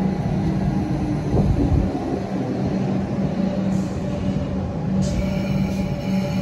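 Comeng electric suburban train pulling slowly into the platform: a steady low hum over the rumble of the wheels. About five seconds in, a high squeal of several tones at once starts and holds.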